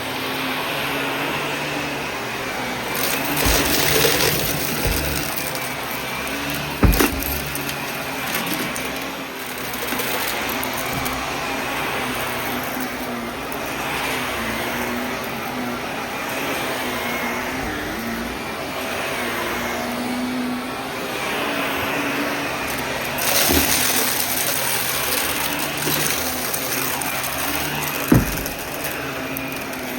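Vacuum cleaner running steadily, its sound swelling and easing every couple of seconds as it is pushed back and forth over the floor. A couple of sharp knocks come through, one near the start and one near the end.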